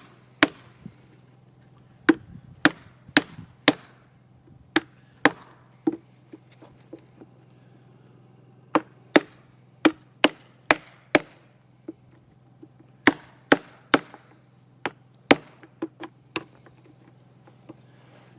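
Hammer-and-chisel blows on wood, knocking out the waste between saw cuts to clear a notch in a wooden table leg. About thirty sharp knocks come in irregular bunches, with short pauses between them.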